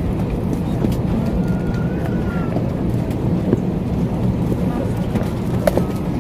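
Airliner cabin noise after landing: a steady low rumble with a faint background murmur and a few sharp clicks.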